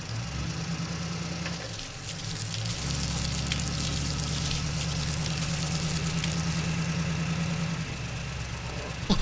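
Vehicle engine idling, a low steady rumble that grows louder about three seconds in and eases off near the end.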